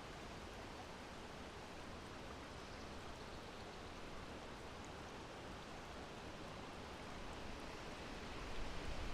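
Steady wind noise, an even breathy hiss that swells louder about eight seconds in.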